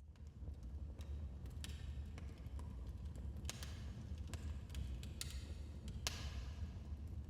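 Wood fire in a fireplace crackling: scattered sharp pops and snaps over a low steady rumble, with one louder snap near the end.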